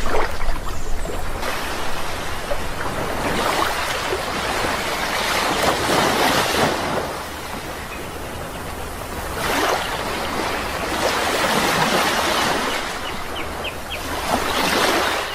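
Sea waves breaking and washing in, the noise swelling and fading in several surges. A few short bird chirps come near the end.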